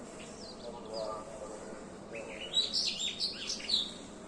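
Small birds chirping: a few faint high chirps, then about two seconds in a quick, loud run of overlapping chirps lasting a second and a half.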